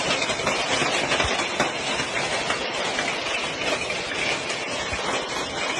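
Hailstorm with heavy rain and strong wind: a dense, steady roar of falling ice and water, with many small sharp hits of hailstones striking hard surfaces.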